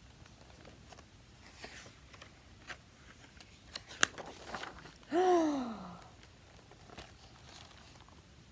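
Paper rustling and soft handling noises, as of a picture book's pages being turned, with a sharp click about four seconds in. Just after, a short voiced 'ohh' from a woman, rising then falling in pitch.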